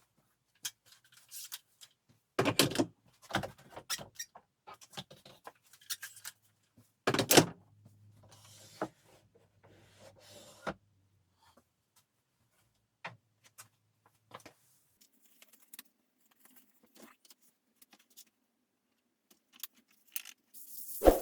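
Workshop handling sounds: scattered light clicks and clinks, with two louder knocks a few seconds apart, as tools or small parts are picked up and set down.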